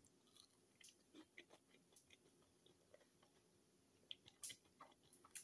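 Faint chewing of a french fry: soft, scattered mouth clicks, one a little louder about four and a half seconds in.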